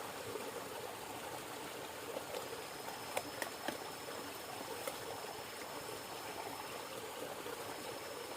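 River water flowing steadily, with a few sharp clicks around three to four seconds in.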